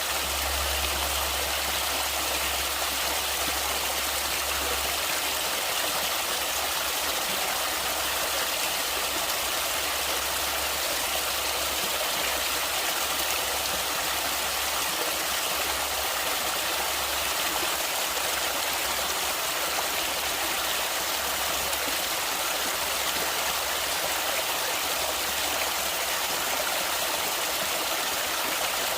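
Stream water rushing steadily over rocks, an even hiss with no breaks. A low rumble underneath is strongest for the first few seconds, then comes and goes.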